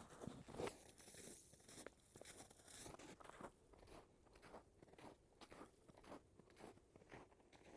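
Footsteps crunching underfoot at a steady walking pace.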